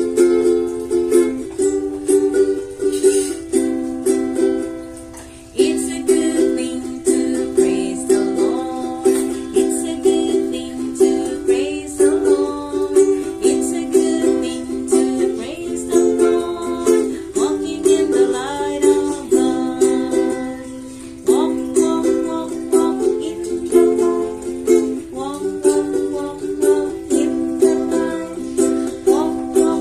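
Ukulele strummed in a steady rhythm, about two strums a second, with a sung or whistled melody over it at times. The strumming drops off briefly twice, about five seconds in and again about twenty seconds in.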